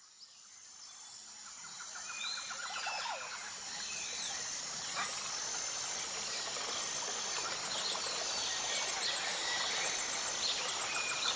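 Tropical forest ambience fading in over the first few seconds: many birds calling with short sweeping chirps and quick trills, over a steady high insect chirring.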